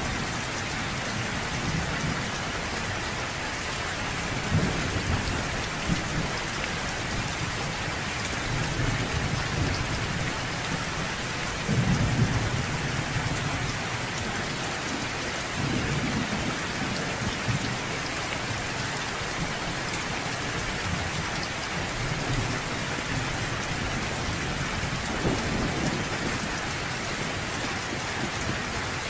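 Steady heavy rain falling, with low rolls of distant thunder rumbling under it every few seconds, the loudest about twelve seconds in.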